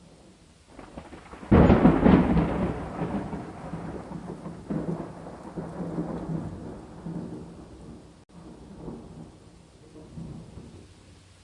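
A thunderclap: a low rumble builds about a second in, then breaks suddenly loud and rolls away in uneven surges over several seconds, fading near the end. Steady rain hisses underneath.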